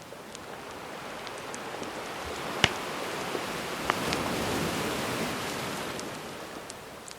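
A gentle sea wave washes in, swelling over a few seconds and fading back, while a wood campfire crackles with small ticks and two sharp pops, the louder one about two and a half seconds in.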